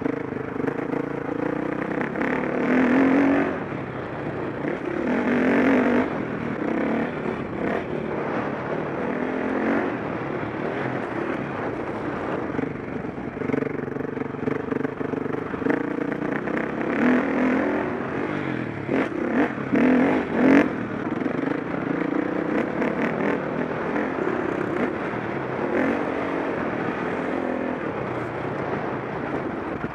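KTM 525 SX four-stroke single-cylinder dirt bike engine being ridden hard, revving up and backing off again and again, with a few clattering knocks about two-thirds of the way in.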